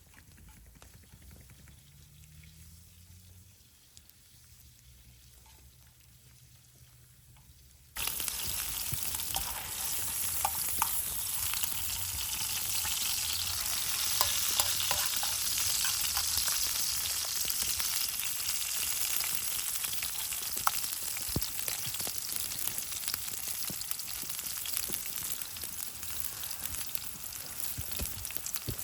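Food sizzling as it fries in a pan, cutting in suddenly about eight seconds in after a faint low rumble, with scattered small pops through the sizzle.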